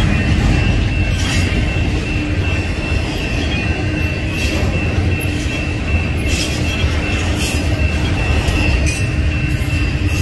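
Double-stack intermodal train of well cars rolling past at speed: a steady rumble of steel wheels on rail, with a steady high-pitched wheel squeal over it.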